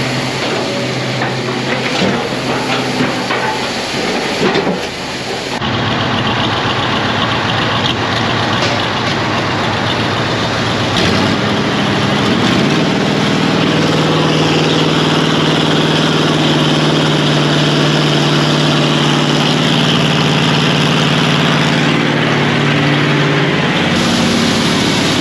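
Heavy vehicle engine running. The sound changes abruptly about five and a half seconds in, then the engine revs up and holds a steady pitch.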